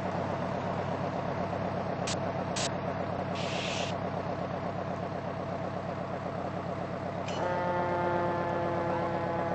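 Fire apparatus engine running steadily, with two brief clicks and a short hiss partway through; about seven seconds in, the truck's horn starts and holds as a steady chord.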